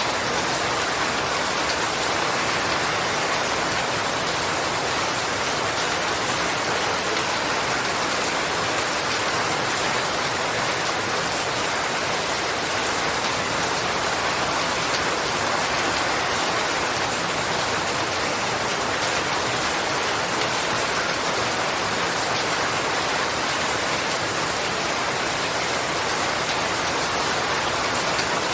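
Steady rain falling and pattering on surfaces, a constant even hiss with no pauses or distinct events.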